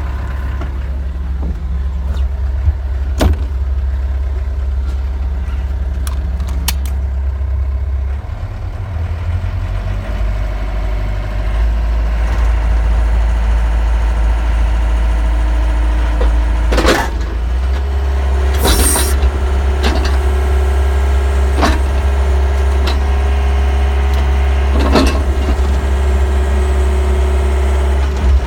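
John Deere 60G compact excavator's diesel engine running steadily under hydraulic work, getting louder about a third of the way in. A few sharp knocks come through, plus a brief hiss about two-thirds of the way in.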